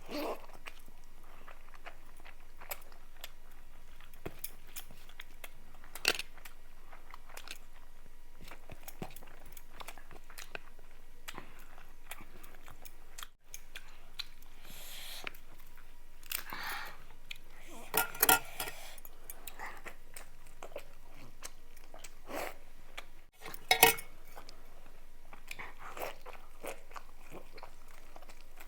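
Close-up eating sounds: a person chewing and biting food, with scattered wet clicks and a few louder crunches, the loudest about two-thirds of the way through.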